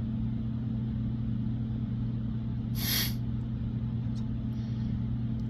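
A steady low hum, with one short, sharp hiss of air about three seconds in.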